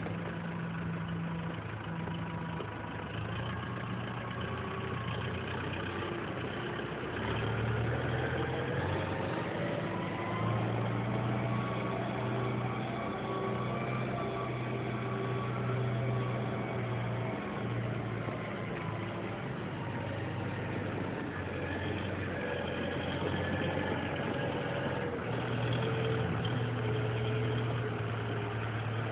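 2008 Kubota M108X tractor's diesel engine running steadily, its new engine showing about 1.1 hours; the engine note rises slowly for several seconds a few seconds in, then holds.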